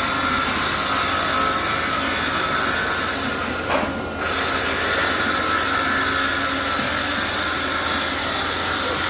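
Steady, loud machinery noise from a concrete pour, a high hiss over a constant whine; the hiss drops out briefly about four seconds in.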